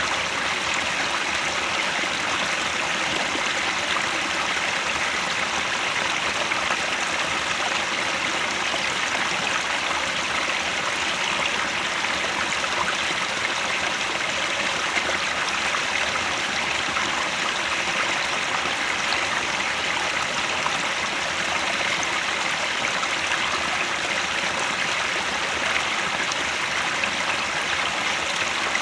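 Mountain stream near its source, water running and splashing over rocks in a steady rush.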